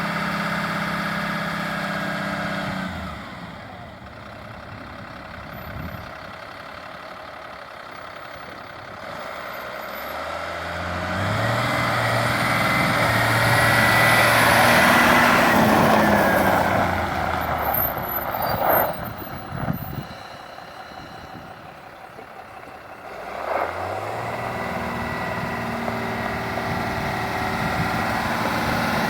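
The M35A3 2.5-ton truck's Cummins six-cylinder turbo diesel running, fading down a few seconds in, then building up with a rising whine through the middle before dropping away. Two sharp clicks or hisses come near the end of that quieter stretch, then the engine comes back up to a steady run.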